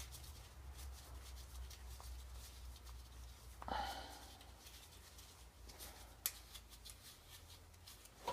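Faint handling noises from working on a two-stroke silencer: one short scrape or rub a few seconds in and a sharp click about six seconds in, over a low steady hum.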